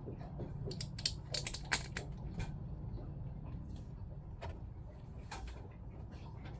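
Small clicks and knocks of diaphragm pump parts being handled and fitted together, a quick cluster about a second in and a single click near the end, over a steady low hum.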